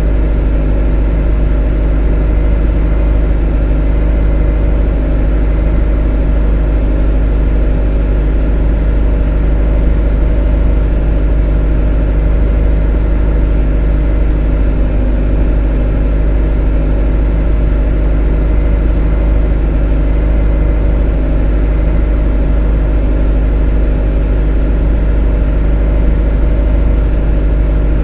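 A motor running at a steady, unchanging speed: a constant drone with a strong deep hum and a stack of steady tones above it.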